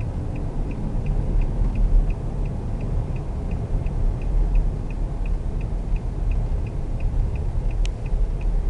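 Steady low road and engine rumble inside a moving car's cabin, with a light, regular ticking about three times a second.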